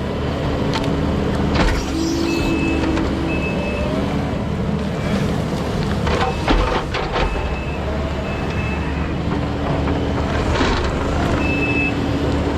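Diesel engine of heavy tracked equipment running steadily, with a backup alarm beeping on and off and several metal clanks and knocks from the machine working.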